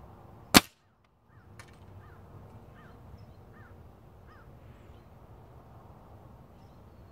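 A single shot from a .22 PCP air rifle about half a second in, followed a second later by a faint sharp click. A bird then gives about six short repeated calls over a low wind rumble.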